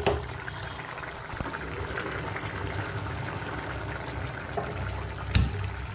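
Pot of jeera rice cooking down on a high gas flame, a steady watery hiss. A single sharp knock comes about five and a half seconds in.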